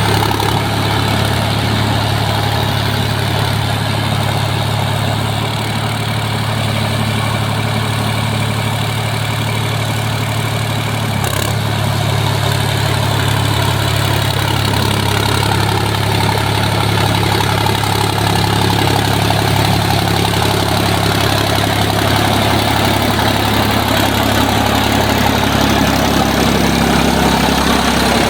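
Sonalika Tiger DI 50 tractor's diesel engine running steadily, with a deep, even hum that grows a little louder near the end.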